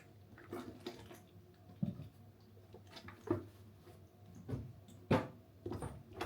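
Faint, scattered light clicks and knocks, irregular, with the sharpest one about five seconds in.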